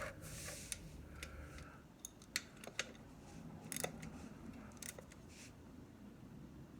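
A ratchet and socket clicking in short, irregular strokes while a motorcycle oil drain plug is being screwed back in and tightened.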